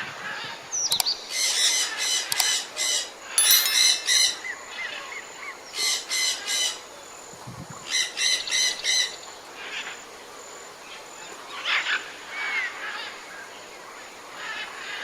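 Birds calling: several rapid series of high, sharp calls in the first nine seconds or so, then fainter scattered calls.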